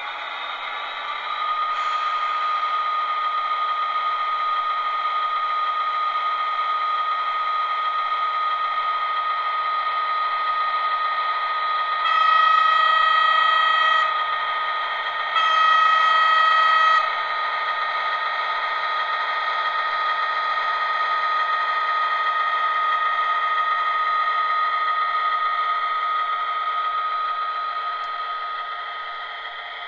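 Trix Class 77 model diesel locomotive running with freight cars in tow, its motor and sound giving a steady whine that rises in pitch over the first two seconds. Its horn sounds twice, two blasts of about two seconds each, a little apart, around the middle.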